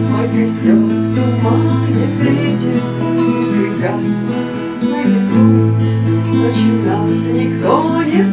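Acoustic guitar playing the instrumental introduction to a Russian romance, with held low notes underneath and repeated melodic phrases.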